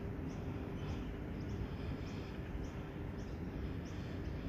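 Small birds chirping in short, high notes, about one or two a second, over a steady low rumble and hum of the surroundings.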